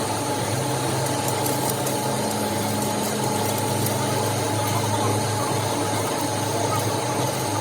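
A machine running steadily, giving a constant low hum with a higher steady whine over it and a few faint ticks.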